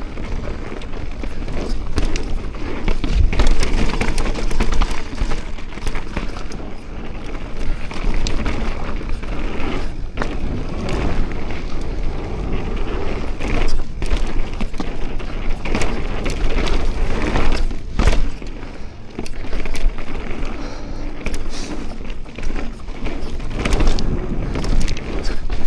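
Mountain bike riding downhill, wind buffeting the microphone with a steady rumble, and the bike rattling and clicking over bumps in the trail.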